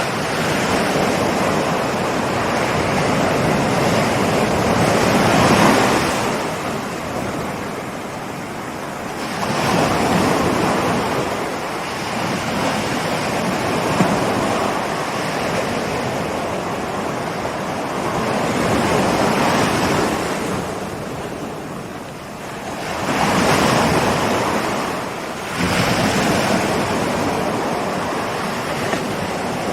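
Ocean surf: waves breaking and washing up the shore, the rush swelling and fading every few seconds.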